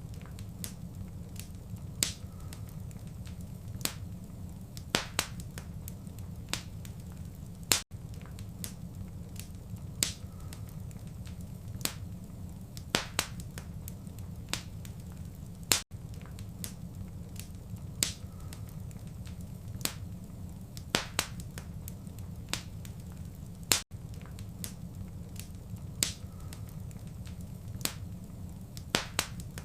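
Wood fire crackling in a fireplace: irregular sharp pops and snaps over a low steady rumble of the burning fire. The sound drops out for an instant about every eight seconds, where the recording loops.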